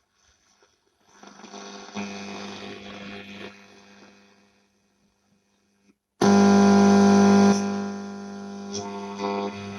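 Philips 15RB525 valve radio playing through its loudspeaker while tuned across stations: a steady mains hum with faint broadcast audio, a gap, then a sudden loud burst of tones about six seconds in as a station comes in, easing off after a second or so.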